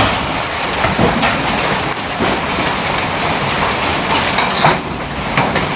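Hailstones pelting down in a dense, steady clatter of many small hits, mixed with heavy rain.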